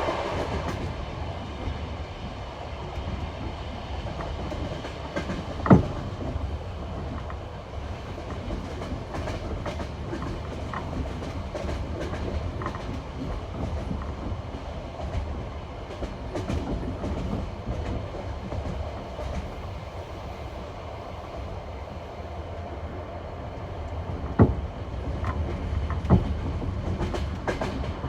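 Passenger train wheels rolling over jointed rail track: a steady rumble with the clickety-clack of wheels crossing the rail joints. Sharper knocks stand out about six seconds in and twice near the end.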